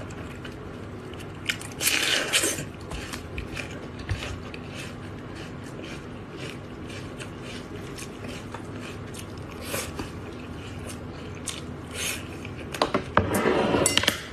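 Close-up chewing and biting of braised meat: a run of short clicking mouth sounds, louder about two seconds in and again near the end.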